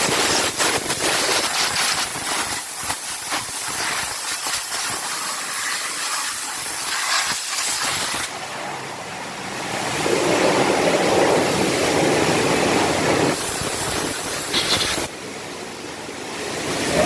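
Pressure spray hissing onto an engine bay during an engine wash. It changes about eight seconds in, grows louder and fuller for a few seconds, then cuts off sharply about two seconds before the end.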